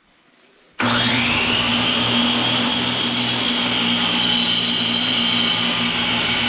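An electric power tool is switched on about a second in. Its whine rises as the motor spins up, then it runs steadily and loudly with a constant hum.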